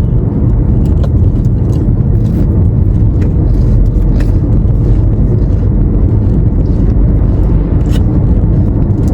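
Steady road and engine rumble heard inside a moving car's cabin, with a few light knocks or rattles.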